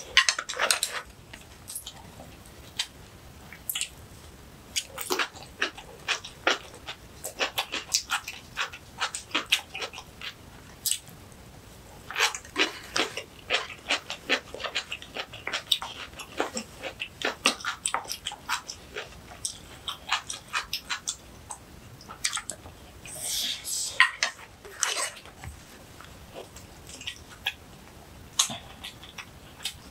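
Close-miked chewing and crunching of kimchi and rice: irregular wet crunches and mouth clicks, coming in runs with short pauses between bites.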